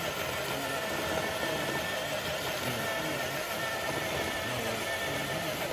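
A steady engine-like hum at an even level, with a constant whine that does not change pitch, like a motor idling.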